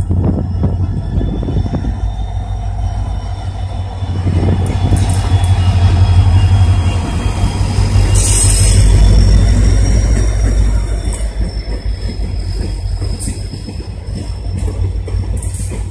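WDP-4D diesel-electric locomotive running past close by as it hauls an express passenger train into the station. Its heavy engine rumble is loudest midway, with a short hiss about eight seconds in. The coaches then roll by with rhythmic wheel clatter over the rail joints and a thin, high wheel squeal.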